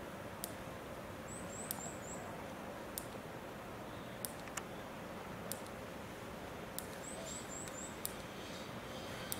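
A small bird calls twice, each time a quick run of four high chirps, over steady outdoor background noise. A sharp click repeats about every second and a quarter.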